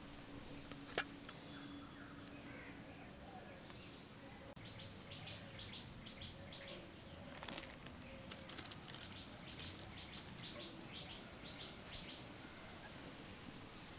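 Faint outdoor background with a bird chirping in a quick series of short high notes through the middle. There is a sharp click about a second in and a brief rustle near the middle.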